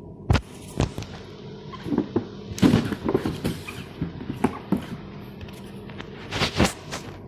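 Packaging boxes of the RC stunt trucks being handled: irregular knocks and clatter, a couple of single knocks first, a busy cluster in the middle, and two more near the end.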